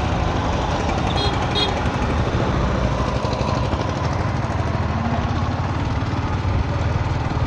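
Yamaha MT-15's single-cylinder engine running steadily while the motorcycle is under way, at an even pace with no sharp revving.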